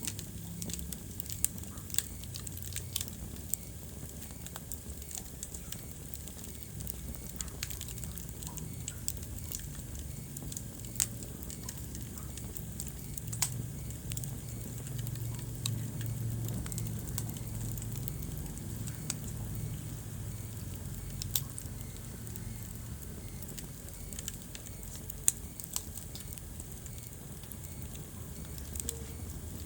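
Wood fire burning in a fireplace: a steady low rumble of the flames with irregular sharp crackles and pops of burning wood, a few louder snaps among them.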